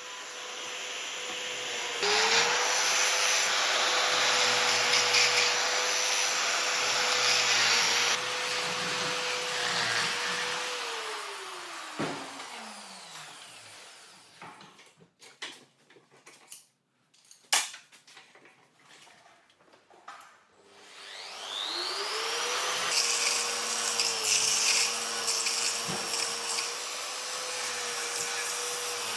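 Electric power tool motor running with a steady high whine, winding down with falling pitch about two-fifths of the way in. A quiet stretch with a few sharp clicks follows, then the motor winds back up and runs again.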